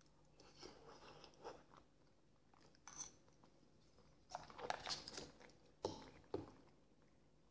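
Faint mouth sounds of chewing a mouthful of boiled potato vareniki with sour cream: scattered short wet clicks, busiest from about four and a half to six and a half seconds in.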